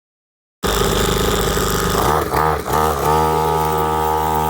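50cc two-stroke pit bike engine running, cutting in abruptly after half a second of silence. It is blipped a couple of times about two seconds in, then held at higher revs and eased off near the end.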